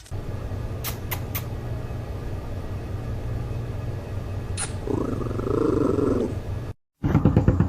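A domestic cat purring steadily, close up, with a few light clicks. About five seconds in, a louder, higher sound from the cat lasts about a second and a half, and then the sound cuts off abruptly.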